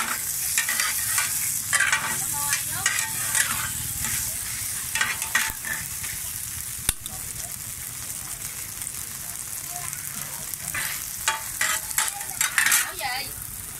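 Pieces of rice-flour cake (bột chiên) sizzling in oil on a flat round griddle, with two metal spatulas scraping and turning them in irregular strokes. There is one sharp clack about seven seconds in, and a cluster of scrapes near the end.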